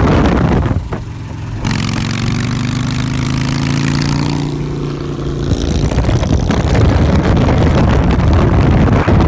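Motorcycle engine running and slowly climbing in pitch as it revs up, with loud rushing noise before and after the climb.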